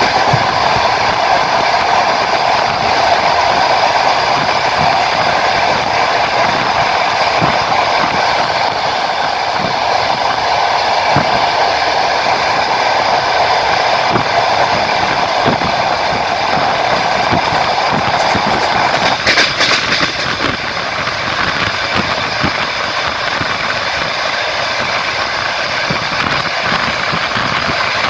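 Passenger train running, heard from a carriage: a steady rolling rumble of wheels on track with irregular clacks over rail joints. About 19 seconds in there is a brief louder clatter, and after it the rolling sound is a little quieter.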